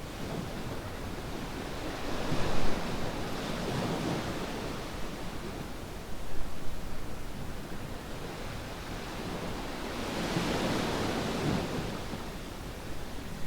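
Small waves washing up on a sandy beach over a steady hiss of surf: a swell of wash from about two to four seconds in, a shorter one near six seconds, and another around ten to eleven seconds.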